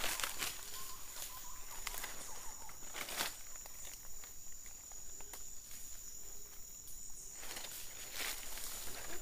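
Forest background with a steady high-pitched insect whine, broken by brief rustles of footsteps through brush and leaf litter, the longest about seven and a half seconds in.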